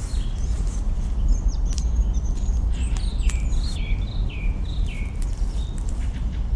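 Campfire crackling, with sharp pops scattered throughout over a steady low rumble. A bird sings a run of short chirps and falling whistled notes in the middle.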